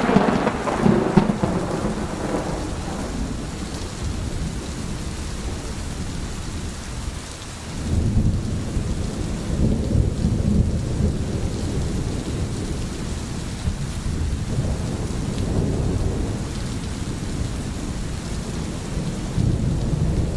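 Steady heavy rain with thunder: a sharp thunderclap right at the start that rumbles away over a couple of seconds, then renewed low rolling rumbles from about eight seconds in and again near the end.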